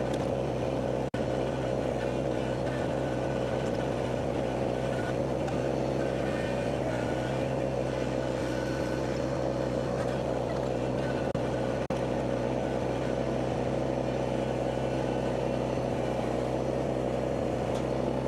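An engine running steadily at an even speed, with no revving. The sound cuts out for an instant twice, about a second in and near twelve seconds.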